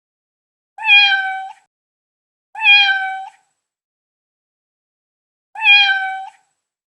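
A domestic cat meowing three times, each meow short and held at an even pitch, with silence between them.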